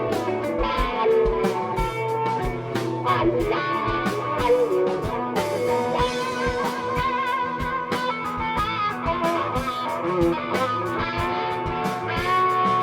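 Live blues-rock band playing an instrumental passage: electric guitar with bent, wavering notes over bass and a steady kick-drum beat.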